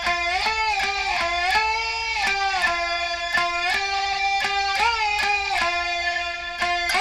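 Diddley bow, a single-string instrument, plucked in a quick run of notes, about two or three a second, its pitch gliding up and down between them.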